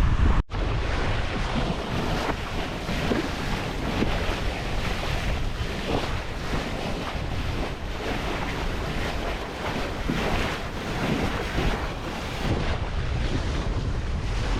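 Wind buffeting the microphone over the rush of water along the hull of a Jeanneau 64 sailboat under way, with a steady low rumble. The sound drops out for an instant about half a second in.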